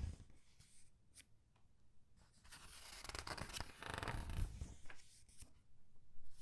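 Comic book pages being turned slowly by hand, the paper rustling and crinkling. A quiet start with a light tick about a second in gives way to two longer rustles.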